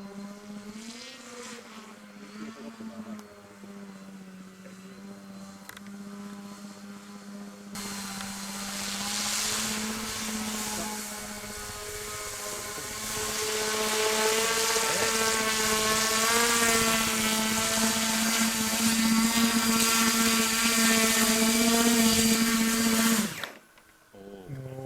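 Vertical-takeoff-and-landing drone's electric rotors humming steadily in vertical flight as it comes down to land, growing louder about a third of the way in. The sound cuts off suddenly near the end as the motors stop.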